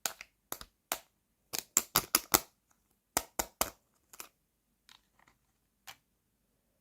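A quick run of sharp plastic clicks and crackles from a toy hamburger set and its packaging being unboxed by hand. About a dozen come close together in the first two and a half seconds, then a few fainter ones follow.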